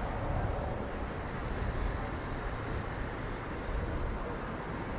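Steady city street ambience with a low, continuous rumble of traffic.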